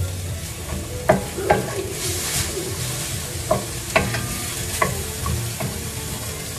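Diced pork with onion, garlic and ginger sizzling in a stainless steel pan over a steady hiss, while a wooden spatula stirs it and knocks against the pan about five times.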